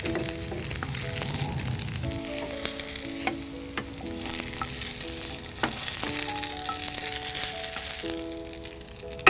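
Avocado mini dosas sizzling in oil on a hot nonstick tawa as a wooden spatula lifts them off, with a few light taps and scrapes of the spatula on the pan.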